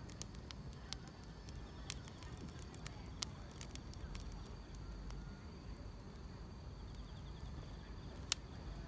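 Wood fire crackling, with irregular sharp pops over a low rumble, the loudest pop near the end, together with a steady high trill of insects.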